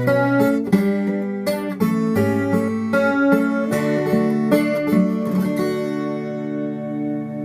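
Acoustic guitar played with strummed and picked chords, ending about two-thirds of the way through on a last chord that rings on and slowly fades.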